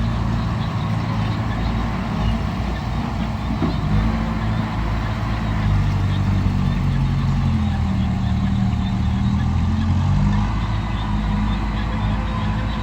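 Heavy machine's diesel engine running steadily, its pitch rising and falling slightly.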